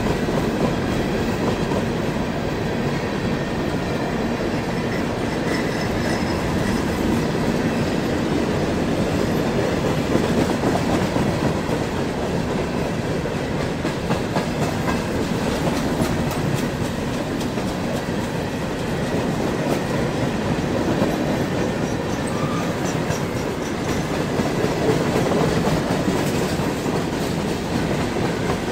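Freight train of hopper cars rolling past at a steady speed: a continuous rumble with the clatter of steel wheels over the rail joints.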